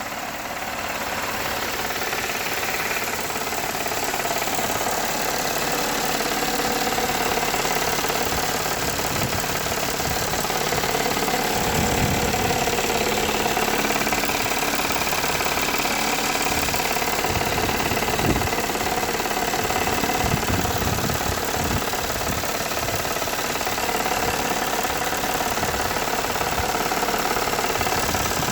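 Warm Toyota 3.3-litre V6 engine running with a noise from the intake manifold side that the owner cannot tell apart as rod knock or an intake manifold leak. A few dull low thumps come around the middle.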